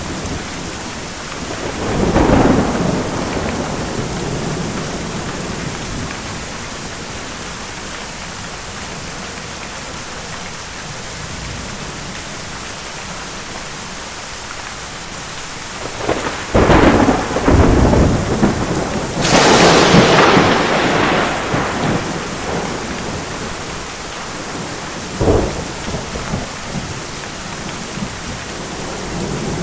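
Steady rain falling with rolling thunder. A rumble comes about two seconds in. A louder run of thunder starts about sixteen seconds in and peaks in a sharp crack near twenty seconds. A short clap comes near twenty-five seconds, and another rumble begins at the very end.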